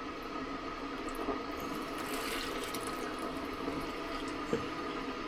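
Liquid running and trickling from brewing hose fittings as they are taken apart, swelling about two seconds in, with a faint steady hum under it and a small knock near the end.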